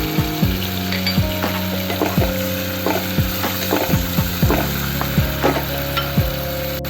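Sauce sizzling as it fries in a pan, under background music with a steady beat of deep, falling kick drums and sustained chords.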